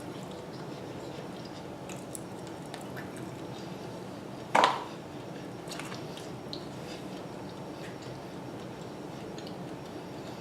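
Close-up chewing of chicken wings: small wet mouth clicks and squishes over a steady low background hum, with one short, louder sharp sound about halfway through.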